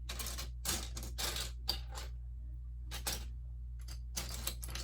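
Loose plastic Lego pieces clicking and rattling in irregular clusters as a hand sifts through a pile to find a part, with a short lull about halfway through. A steady low hum runs underneath.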